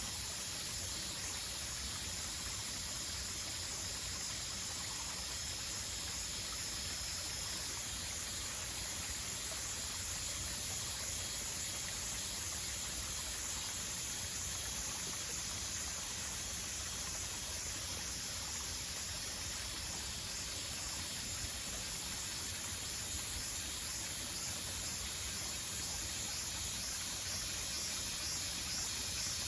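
Outdoor nature ambience: a steady, high-pitched chorus of insects over a soft, even rush of running water.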